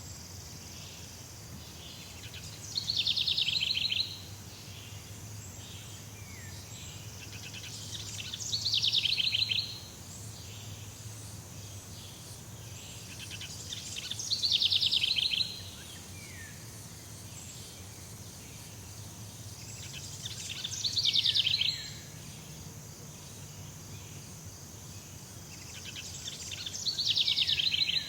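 Jungle ambience: a fast trilling animal call repeats five times, about every six seconds, each one swelling for a second or so and then stopping abruptly, over a steady high insect hiss.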